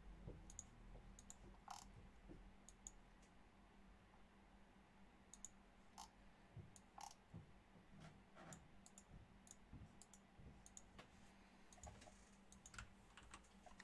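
Faint, irregular clicking of a computer mouse and keyboard over a low steady hum.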